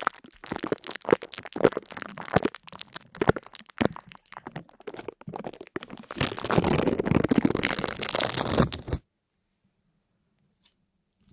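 Rapid crunching and crackling, many sharp cracks close together, thickening into a continuous crunch about six seconds in and cutting off suddenly about three seconds later.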